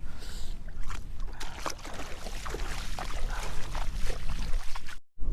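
Wind rumbling on the microphone over the tidal flat, with scattered small splashes and clicks of shallow water. The sound drops out suddenly for a moment near the end.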